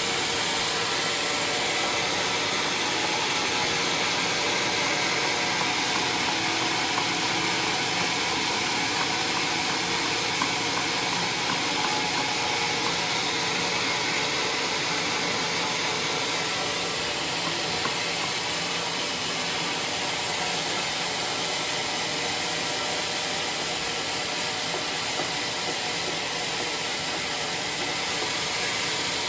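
Sawmill saw running through timber: a steady, even hissing noise that keeps up without a break.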